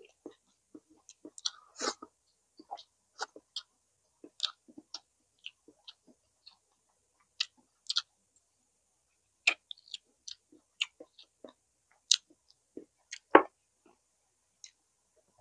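A person eating chicken inasal close to the microphone: wet chewing and lip smacks heard as irregular short clicks, with one louder knock near the end.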